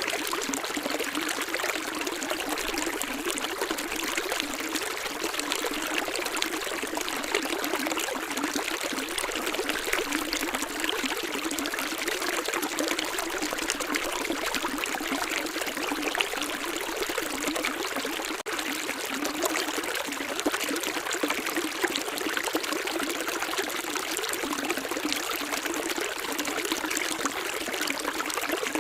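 Running water, such as a stream, flowing steadily: an even, continuous hiss and splash with almost no low rumble.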